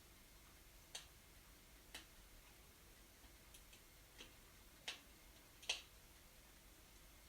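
Wood fire in a fireplace crackling quietly, with sparse, irregularly spaced sharp pops, the loudest a little before the end.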